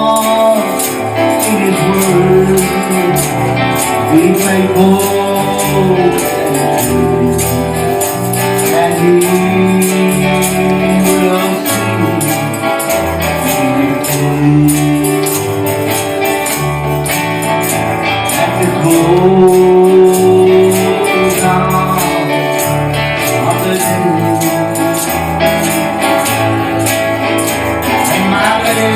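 Gospel worship music played live: a voice singing over guitar and bass, with a tambourine shaking on a steady beat.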